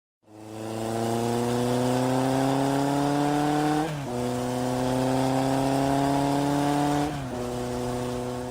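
Motorcycle engine accelerating through the gears. The engine note climbs steadily in pitch, drops at two upshifts about four and seven seconds in, and fades near the end.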